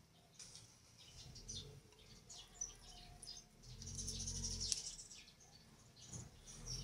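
Faint chirping of small birds, many short high chirps. A low hum and hiss rise for about a second just past the middle.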